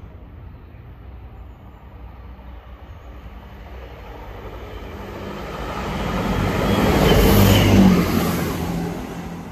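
Diesel multiple unit approaching and running past the platform close by, its engine and wheels growing louder to a peak about seven to eight seconds in, then fading.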